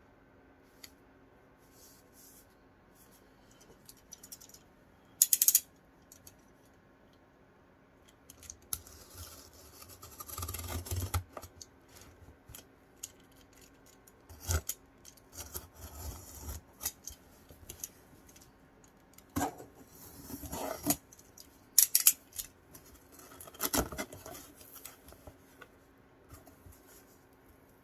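Scissors snipping through packaging, with scratching and rustling as the parcel is handled. It comes in irregular bursts of sharp clicks and rustles, loudest about five seconds in and again in the second half.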